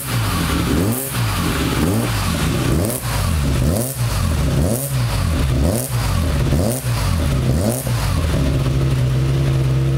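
BMW S50B30 3.0-litre straight-six being blipped on its first start-up run, revving up and dropping back about once a second, eight or nine times. Near the end it settles into a steady idle.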